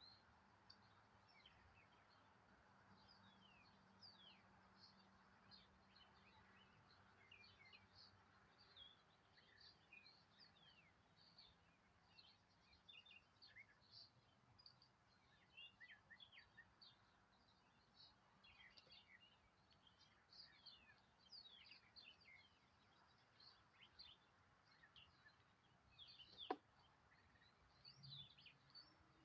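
Faint chirping of small birds: many short, high, quick notes in a steady scatter, with a single sharp click about 26 seconds in.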